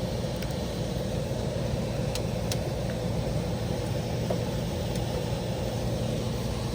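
Air handler blower motor and fan running with a steady, even noise, its access plate off, with a couple of light ticks a little over two seconds in. The motor draws 1.7 amps, well under its 2.7-amp limit, so it is not working harder than it should.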